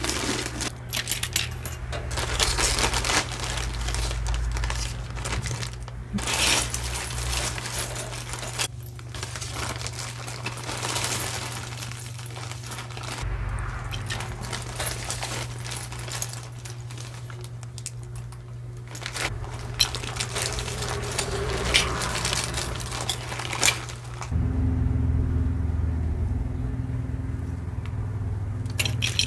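Costume jewelry being handled and dropped into a box: many small metallic clicks and jangles. A steady low hum comes in near the end.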